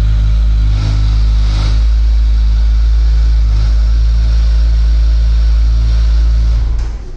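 Kawasaki Ninja 1000's inline-four engine and exhaust running loud and steady at an even pitch, the sound dropping away just before the end.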